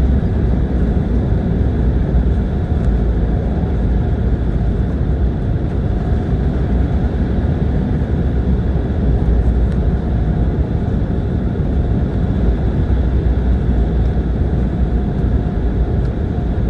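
Steady, loud rumble of airflow and jet engine noise inside the cabin of an Embraer E195 airliner in flight, with a faint steady whine.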